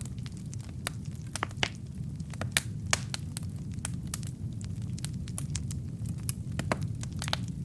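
Wood fire with burning logs crackling: irregular sharp pops and snaps, several a second, over a steady low rumble of the flames.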